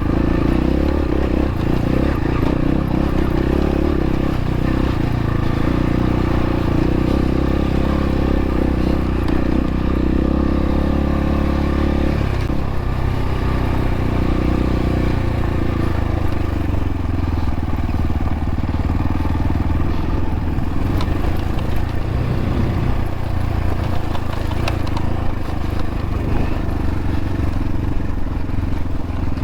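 X-Pro Templar X dirt bike engine running under load on a steep, rocky hill climb, its revs held fairly steady for about the first twelve seconds, then shifting and rising and falling through the rest.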